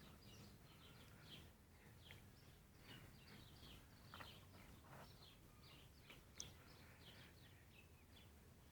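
Faint, scattered bird chirps, many short calls a second or so apart, over a quiet low background rumble.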